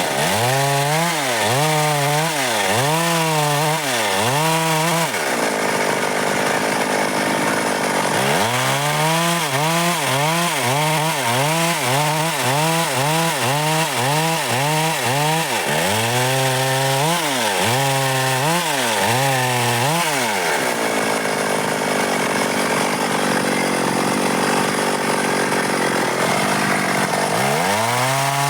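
Stihl MS 382 two-stroke chainsaw cutting dry wood, its engine pitch rising and falling about once a second as the bar works through the cut. Two stretches run at a steady pitch: a few seconds from about five seconds in, and a longer one from about twenty seconds in until near the end.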